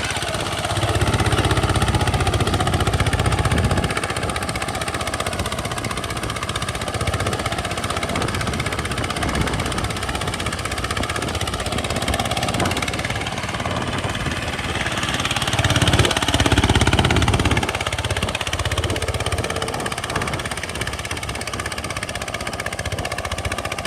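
Farm tractor engine running steadily, growing louder and deeper twice: for a few seconds about a second in, and again for a second or two past the middle.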